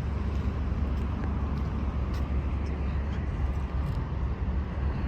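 Steady street traffic noise: a continuous low rumble of passing cars with an even hiss over it.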